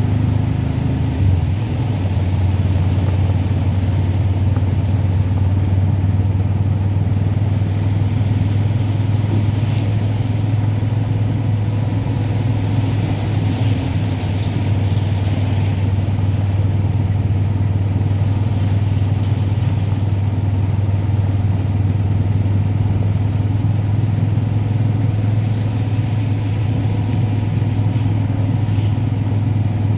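Steady low drone of a vehicle being driven, engine and road noise, holding level throughout with a faint hiss above it.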